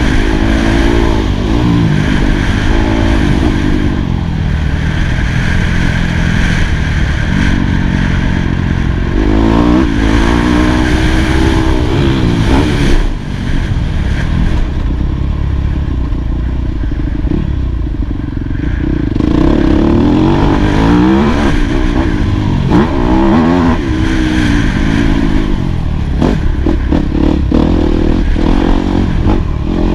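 Yamaha YZ250F four-stroke single-cylinder motocross engine being ridden hard, revving up and falling back again and again through the gears. A lower, gentler spell comes about halfway through. Rattling and clatter from the bike run underneath.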